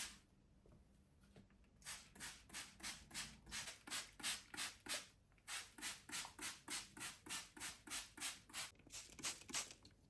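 Quick, rhythmic scratchy rubbing strokes, about three a second, with a short pause about halfway through, like a brush or cloth worked back and forth over a surface.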